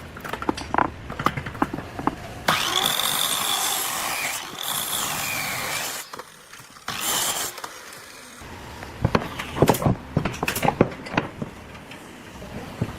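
A power tool runs in a burst of about three and a half seconds with a high whine that dips and rises, then runs again briefly about seven seconds in. Sharp clicks and knocks come before and after the runs.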